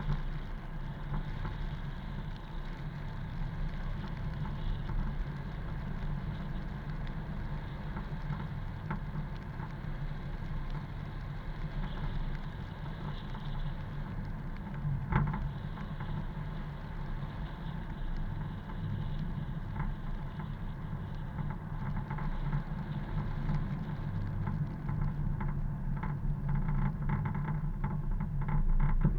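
Car driving, with a steady low rumble of engine and road noise and a single knock about halfway through.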